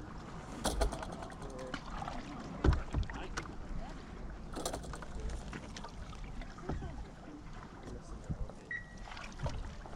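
Sailing canoe under way in light wind: water lapping at the hull, with scattered knocks and clicks, the loudest about three seconds in.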